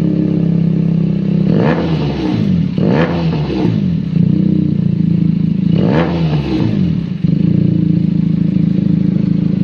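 Benelli TNT 300 parallel-twin motorcycle engine idling through its exhaust, revved in three quick blips about two, three and six seconds in, each rising and falling back to a steady idle.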